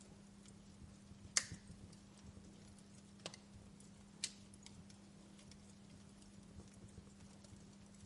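Wood fire crackling softly: sparse sharp pops over a faint steady hiss, the loudest pop about a second and a half in and two more near three and four seconds in.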